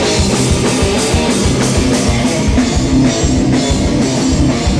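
Hardcore band playing live and loud: heavy guitars over a steady drum beat.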